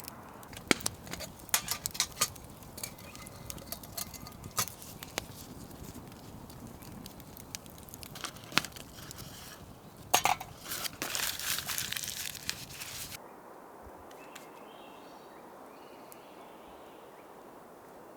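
Scattered sharp clinks and knocks of camp cookware being handled over a crackling wood fire, with a denser rushing stretch about ten seconds in. The sound then cuts off abruptly to quieter forest ambience.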